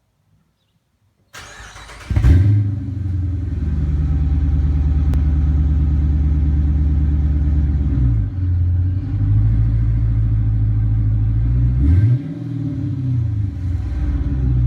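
Supercharged 5.7-litre Hemi V8 of a 2015 Dodge Charger R/T, breathing through a Flowmaster 40 muffler with the resonator deleted, cranking over and catching about two seconds in with a loud flare, then settling into a steady, deep idle. The idle note dips and rises briefly twice, around eight and twelve seconds in.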